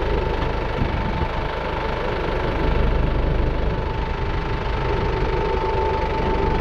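Engine running steadily, with a thin steady whine over the rumble.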